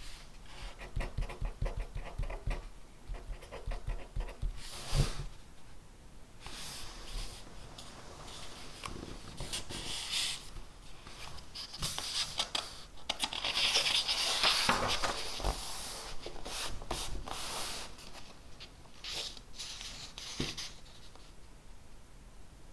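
Handwriting on paper: quick light taps and short strokes for the first few seconds, then scratchy strokes, with a longer, louder run of scratching a little past the middle.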